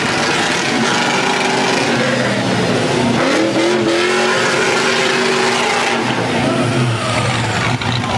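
Truck engines revving, the engine note climbing and falling about three seconds in, then settling to a lower steady run.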